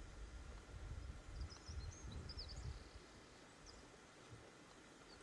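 Faint outdoor ambience: small birds chirping now and then, with a low rumble during the first three seconds.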